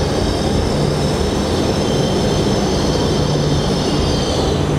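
Shinkansen train moving slowly at the platform: a steady rolling rumble under a high electric whine that fades out near the end.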